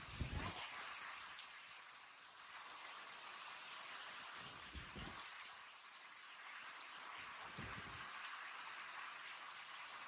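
Heavy rain falling steadily on a paved yard, an even hiss of drops on wet concrete. Three brief low thuds cut through it: one right at the start, the loudest, one about halfway, and one later on.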